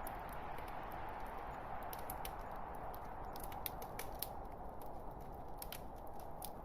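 Log fire crackling: irregular sharp snaps and pops over a steady hiss.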